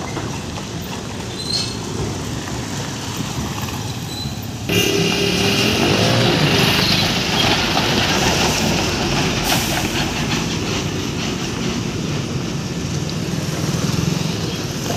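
A heavy vehicle driving over a very rough, dusty road, with steady rumbling and rattling. About five seconds in, the noise suddenly gets louder and brighter.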